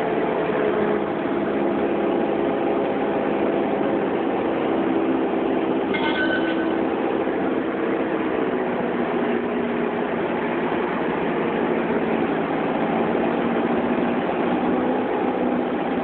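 Cessna 172's piston engine and propeller droning steadily in the cockpit during the landing approach. About six seconds in a brief high beep sounds, and around eight seconds in the engine note drops a little.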